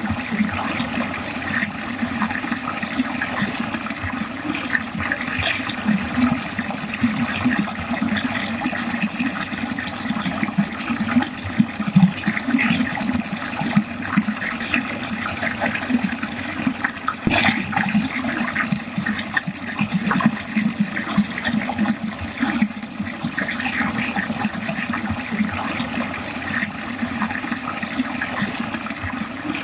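Water draining steadily, rushing and gurgling down a drain, with one brief louder splash about 17 seconds in.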